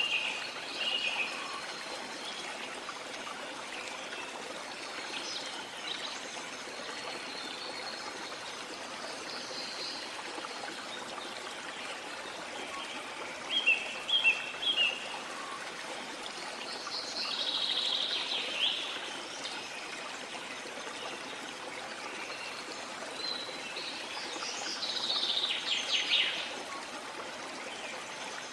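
Steady rush of falling and flowing water from a waterfall, with birds calling now and then over it: a few short chirps about halfway through, a quick run of notes a little later, and a call sweeping down in pitch near the end.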